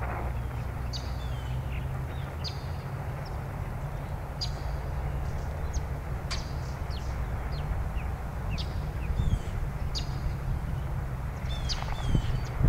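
Birds chirping outdoors in short high calls, many times, over a steady low rumble and the even static hiss of a Tecsun PL-660 shortwave radio being tuned between stations, with a couple of sharp clicks.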